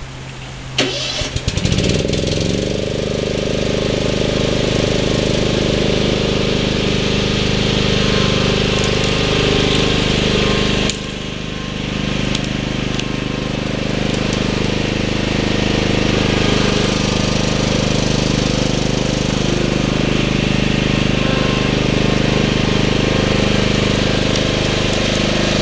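Lawn tractor engine cranked by its starter and catching about two seconds in, then running steadily. Its level dips briefly about halfway through.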